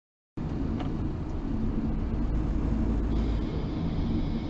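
Steady low rumble of a car on the move, engine and road noise together, starting abruptly after a brief silence.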